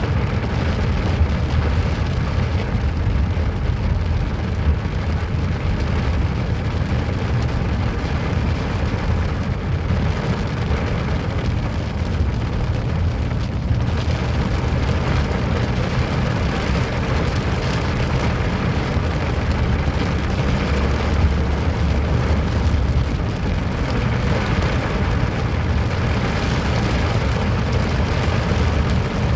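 Rain falling, under a steady, loud low rumble that covers it throughout.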